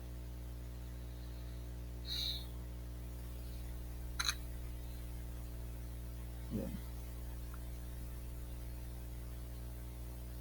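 Steady electrical mains hum, a stack of evenly spaced tones, with a short faint squeak about two seconds in and a faint click about four seconds in.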